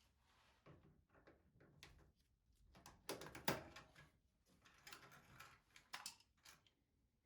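Faint, scattered clicks and knocks of tools and parts being handled, the loudest about three and a half seconds in.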